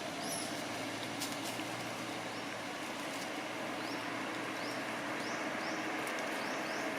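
Outdoor background: a steady low hum under a noise haze, with short high rising chirps repeating every second or so.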